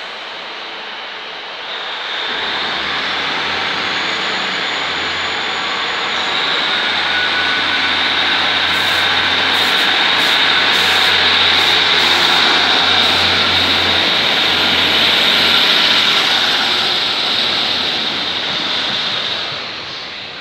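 Diesel multiple unit passing close along the platform and pulling away: its diesel engines run with a steady low hum under the rush of wheels on rails and a high whine. A run of sharp clicks comes in the middle. The noise builds about two seconds in, is loudest in the middle and fades near the end.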